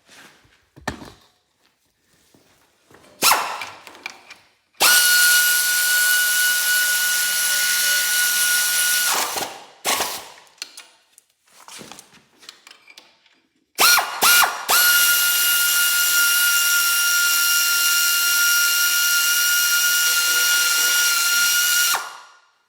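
Pneumatic wrench running transmission bolts in: two long steady high whines of several seconds each, the second after a few short blips of the trigger, with a few knocks before the first.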